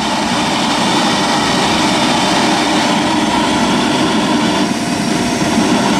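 Gas forge burner running hard with its inducer blower, a loud, steady rushing of flame and air.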